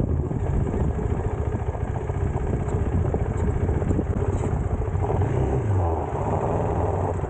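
Motorcycle engine running as the bike is ridden, with a brief rise in pitch about five seconds in.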